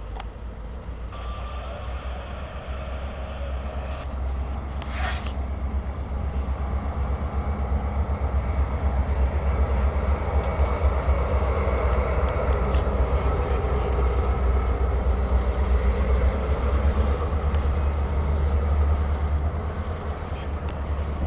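Diesel freight locomotive approaching and passing, its low engine rumble growing steadily louder and peaking as it goes by, then freight cars rolling past. A brief hiss sounds about five seconds in.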